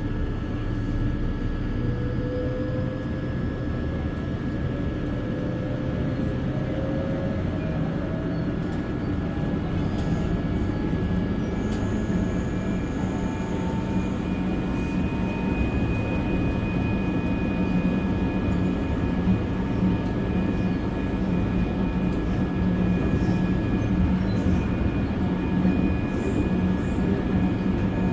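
Seoul Subway Line 1 electric train under way, its traction motors giving a whine that rises in pitch over the first ten seconds or so as the train gathers speed, then holds steady over a continuous rumble of wheels on rail.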